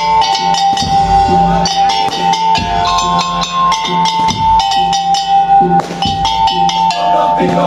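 Madurese tong-tong (ul-daul) ensemble playing an instrumental passage: a melody line stepping between held notes over a dense beat of drums and wooden strikes.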